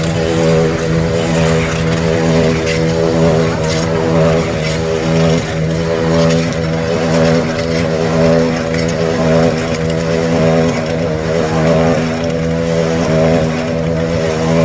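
Motorcycle engines running hard at steady high revs, a continuous engine drone that holds its pitch and swells and dips slightly about once a second.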